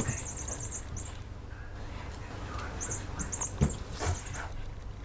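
Small bird chirping in quick runs of very high, rapid notes, two bouts about two seconds apart, with a couple of light knocks in the second bout.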